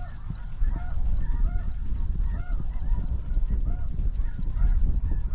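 A flock of snow geese calling, many short overlapping honks in quick succession, over a steady low rumble.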